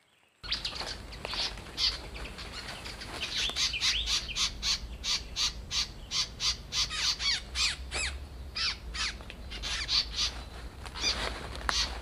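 Pin-striped tit-babblers (ciung air coreng) calling: a fast, dense series of short repeated chattering notes, several a second. The calls start abruptly about half a second in.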